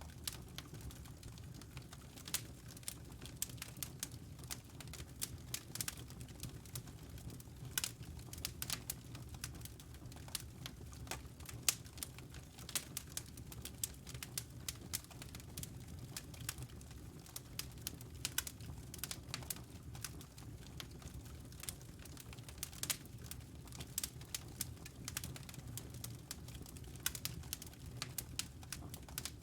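Wood fire crackling, with irregular snaps and pops over a low, steady rumble of flame.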